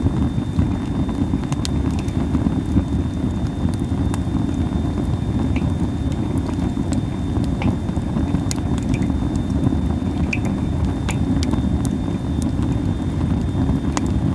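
Campfire of Japanese spindle (masaki) wood crackling, with scattered sharp pops over a steady low rumble.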